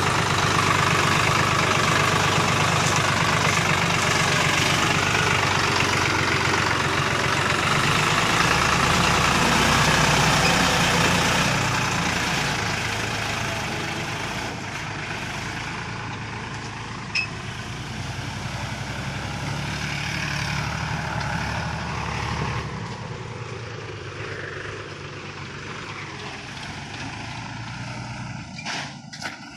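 Sonalika DI 35 RX tractor's diesel engine running steadily, loud at first and fading gradually through the second half. There is a single sharp click about 17 seconds in.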